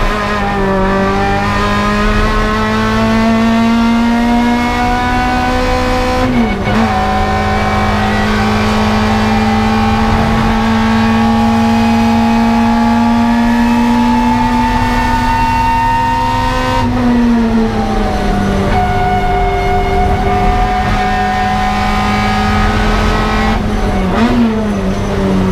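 Toyota KE70 Corolla's 4A-GE four-cylinder engine heard from inside the cabin, pulling hard on track with its revs climbing slowly. The pitch dips briefly about a quarter of the way in and again near the end, and falls back about two-thirds through before holding steady.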